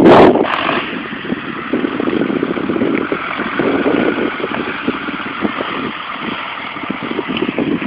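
A loud rush of noise in the first half-second, then a tractor engine running steadily.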